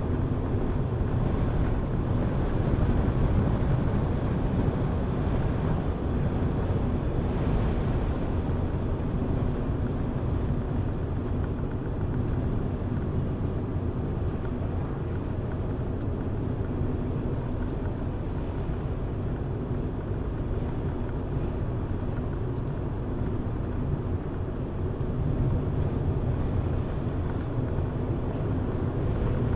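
Car driving at a steady pace: continuous low engine and tyre road noise, rising and falling only slightly.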